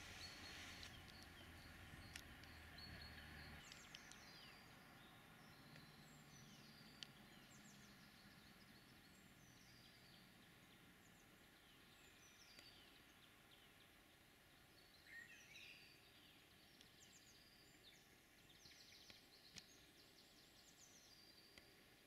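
Faint songbirds chirping, with many short chirps and falling whistles in quick runs over quiet outdoor background noise. A low steady hum stops about three and a half seconds in.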